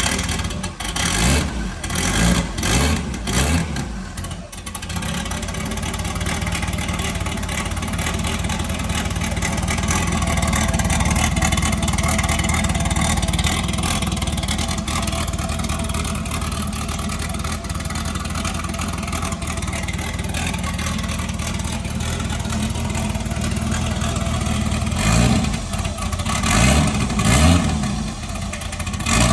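Turbocharged Nissan 300ZX (Z31) 3.0 V6 stumbling unevenly at first, then catching about five seconds in and running steadily. It is revved a few times near the end.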